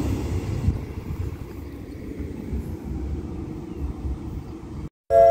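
Low rumble of a train fading away as it moves off, its higher noise dropping out about a second in. Right at the end the sound cuts briefly, and the station's announcement chime starts with a few ringing tones.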